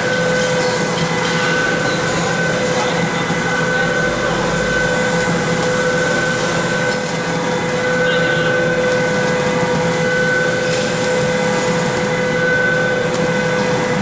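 Foam compactor for refrigerator PU foam running steadily: a loud mechanical drone with a constant hum and a higher whine that comes and goes every second or two.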